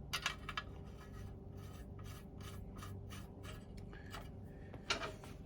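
Light scraping and clicking of the Mamod SE1 toy steam engine's small burner being handled and slid under the boiler: a cluster of scrapes at the start, a run of small rubbing scratches through the middle and a short burst near the end.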